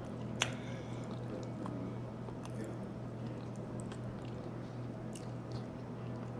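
A person chewing a soft, sticky mouthful of monkey bread, faint wet mouth sounds, with a sharp click about half a second in. A steady low hum runs underneath.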